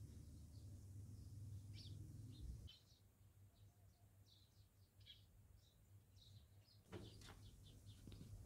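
Faint, scattered short bird chirps over an otherwise near-silent background, with one soft knock about seven seconds in.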